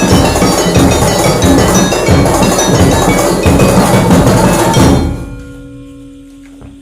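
Loud percussion music of drums and ringing metal mallet instruments, dense and fast. It breaks off suddenly about five seconds in, leaving a single ringing tone that fades.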